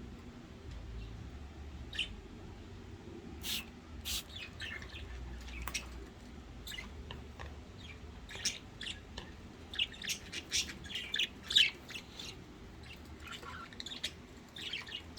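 Pet budgerigars chirping in short, high, scattered calls, few at first and growing busier about halfway through.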